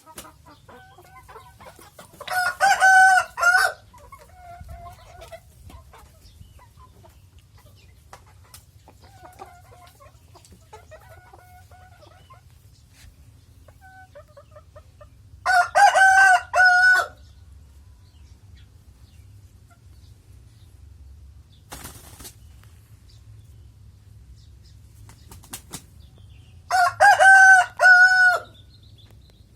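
Village rooster crowing three times, each crow about a second and a half long and roughly twelve seconds apart, with soft chicken clucking in between.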